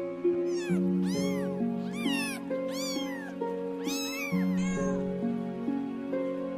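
A kitten meowing about five times in quick succession, short high calls that rise and fall in pitch, over soft background music.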